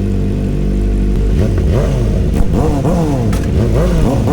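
Inline-four superbike engine idling, then, about a second and a half in, revved in a quick series of throttle blips, the pitch rising and falling with each one.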